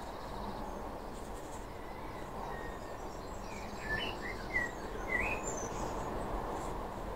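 A few short bird chirps between about four and five and a half seconds in, over a steady background of low noise.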